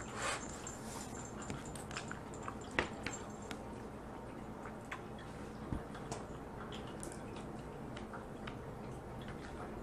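Eating Dungeness crab: wet chewing and sucking with scattered small clicks and cracks of shell, and one sharper crack a little under three seconds in.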